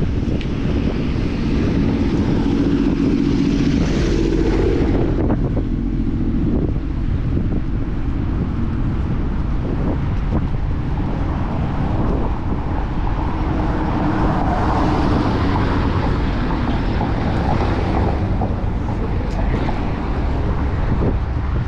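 Wind buffeting the microphone of a camera on a moving bicycle, with city motor traffic passing close by. A passing vehicle's noise swells and fades over the first five seconds, and another about fourteen to eighteen seconds in.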